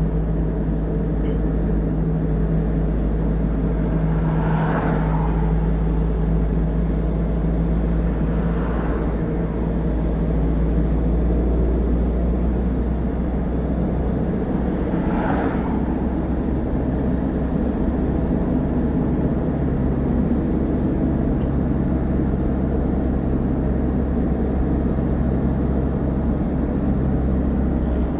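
Steady engine and road noise of a moving vehicle, with its engine tone shifting about halfway through and three brief swells of noise in the first half.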